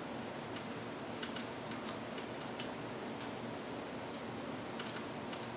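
Faint, irregular little clicks and smacks of a toddler chewing and handling a soft pancake, over a steady low room hiss.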